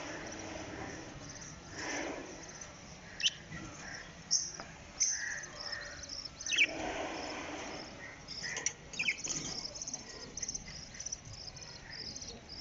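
Several budgerigars chirping and chattering, with a run of short high chirps and quick warbling notes and a few sharper, louder calls scattered through.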